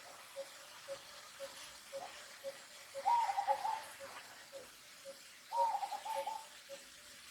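A baby macaque cries in two bouts, each a quick run of short, arching, high calls, the second starting about five and a half seconds in. A faint, even short note repeats about twice a second behind it.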